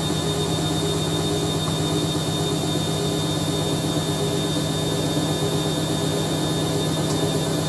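Hoover A3060 Electronic 1100 washing machine in a spin, its motor and drum running with a steady hum and a thin high whine as the spin slowly builds up.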